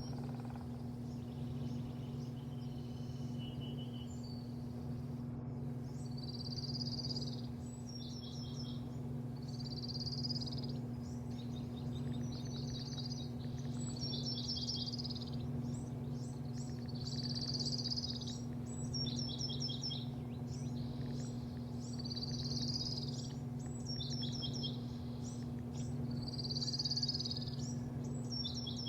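A bird singing the same short, high song phrase again and again, every few seconds, over a steady low mechanical hum.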